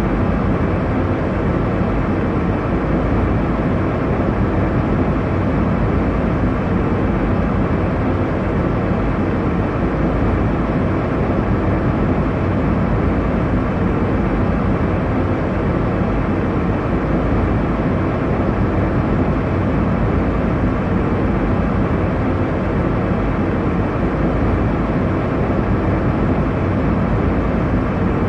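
Airliner cabin noise in flight: a steady, unchanging rush of engine and airflow noise, heaviest in the low end, with nothing standing out.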